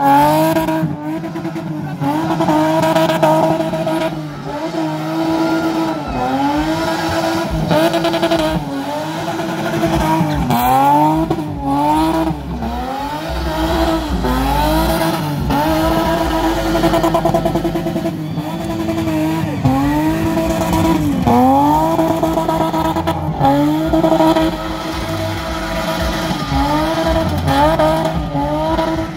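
BMW E30 saloon spinning smoking donuts: its engine is held at high revs, the pitch dipping and climbing back about once a second as the throttle is worked, over the hiss of the spinning rear tyres.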